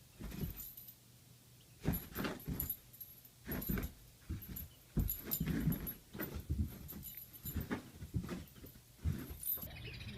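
An animal giving short whimpering, dog-like cries in irregular bursts, starting about two seconds in.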